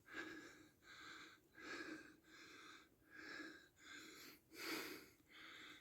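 A man breathing quickly and heavily, faint: about eight short, evenly spaced breaths in and out.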